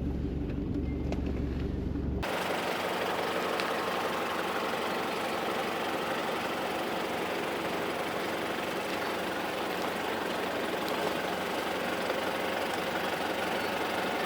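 4WD vehicle engine running at low revs as it crawls slowly down a steep track. About two seconds in, the sound changes abruptly from a deep steady hum to a wider, noisier rumble with less bass.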